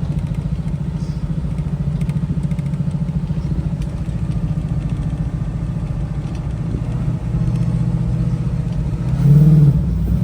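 A vehicle engine idling steadily just after being started, purring evenly; it gets a little louder about seven seconds in and swells briefly near the end.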